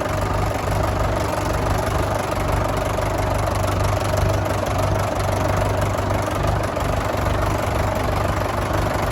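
Fordson Major tractor's diesel engine running steadily at low revs.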